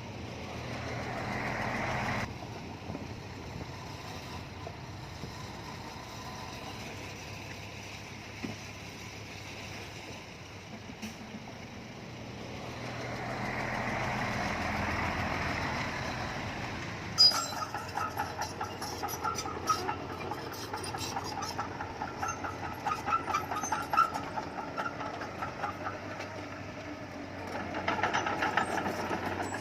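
Bulldozer's diesel engine running under load, swelling louder twice as it works. From a little past halfway, rapid metallic clattering and clanking joins in.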